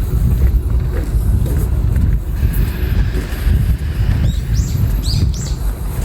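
Wind buffeting the microphone with a heavy low rumble, and small birds chirping in quick repeated calls from about four seconds in.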